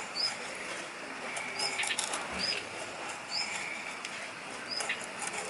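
A small bird calling a short, high, hooked note over and over, about once a second, with scattered short clicks and scrapes.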